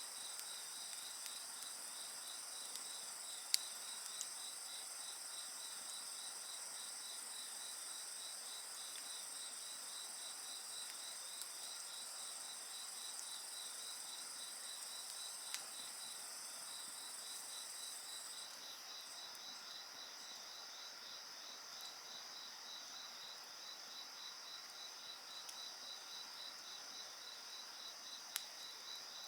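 Crickets and other insects calling steadily in several high-pitched layers, one of them a fast pulsing trill; the highest layer stops a little over halfway through. A few sharp crackles from the wood fire, the loudest a few seconds in, another about halfway and one near the end.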